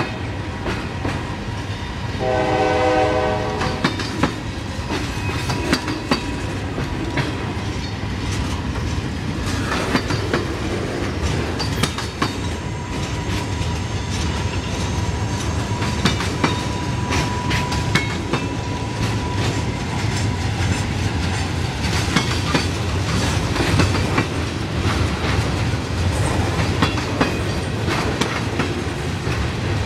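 Freight train boxcars rolling past, their wheels clacking over the rail joints with a steady rumble. A train horn sounds once, about two seconds in, for just over a second.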